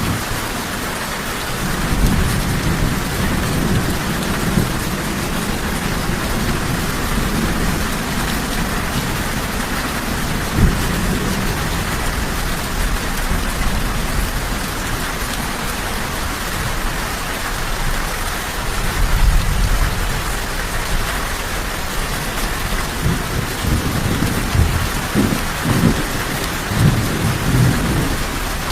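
Steady, even rain falling, with low rolling rumbles of thunder coming and going underneath, heaviest about two-thirds of the way through and near the end.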